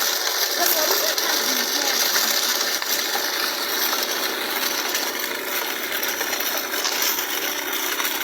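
Small homemade toy tractor-and-thresher mechanism running, giving a continuous metallic rattling clatter with no deep engine sound.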